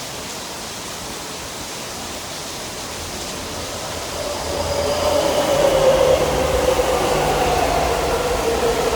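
Heavy rain hissing steadily. About four seconds in, a Taipei Metro C301 electric train comes in louder over it, its motor whine and rolling noise falling slightly in pitch as it slows into the station.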